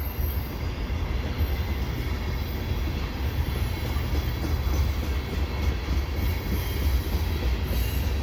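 Freight cars of a passing mixed freight train rolling by, a steady low rumble of steel wheels on the rails.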